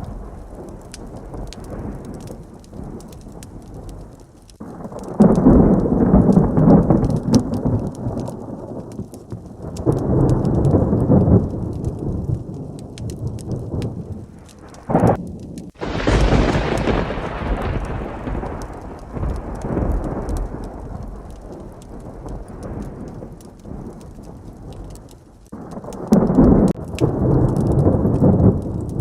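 Heavy thunderstorm: steady rain with rolls of thunder rumbling several times. About fifteen seconds in a short sharp crack is followed by a loud, close thunderclap that fades into rumbling.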